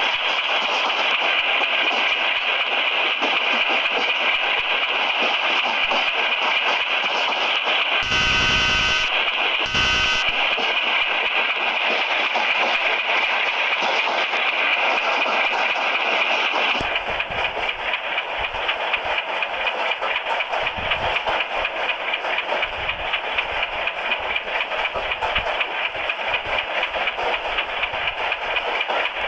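Train hauled by a WDM-3A diesel locomotive running at speed, a loud steady rush of rail noise. Two short horn blasts come about 8 and 10 seconds in. About 17 seconds in the noise turns rougher, with a run of rhythmic low thumps from the wheels on the rails.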